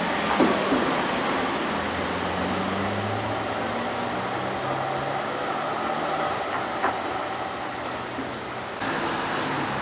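Ferrari SF90 Stradale's twin-turbo V8 running at low revs as the car pulls away at low speed, a steady low drone whose pitch shifts slowly. A couple of sharp clicks sound about half a second in.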